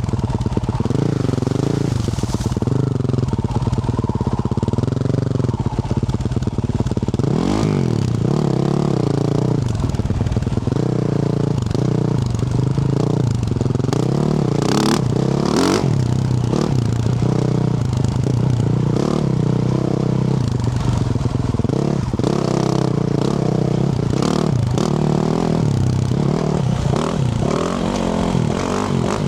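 2024 Yamaha YZ450F's 450 cc single-cylinder four-stroke engine, through a Yoshimura RS-12 exhaust, revving up and down with the throttle as it is ridden over rough, rocky track. Scattered knocks and clatter from the rough ground, several of them around the middle.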